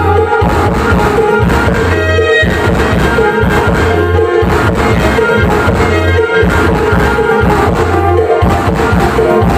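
Loud music with a heavy bass beat, drums and brass, played over a mobile sound system.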